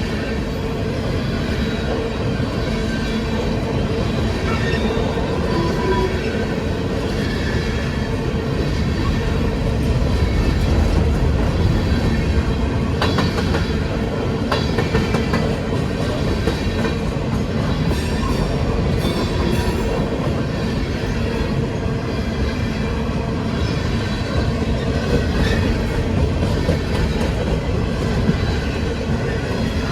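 A train running steadily: a continuous rumble with a droning tone, and wheels clacking on the rails, with a few sharper clicks about halfway through.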